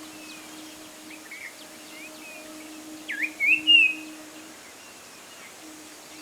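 Jungle babblers calling: scattered short chirps, then a louder run of calls about three to four seconds in, over a steady low hum.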